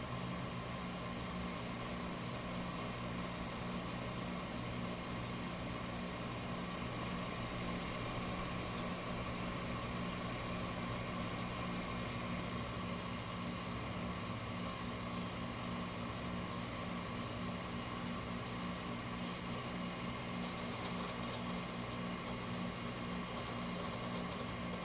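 LG window air conditioner running in cooling mode, its compressor humming steadily under the blowing of the fan as the unit starts to get cold.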